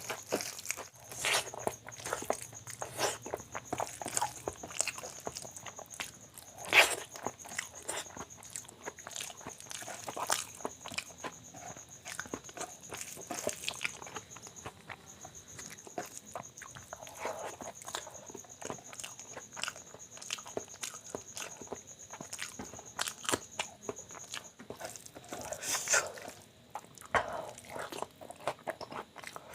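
Close-miked eating: irregular wet chewing, mouth smacks and crunching bites of rice with mashed bharta and raw onion.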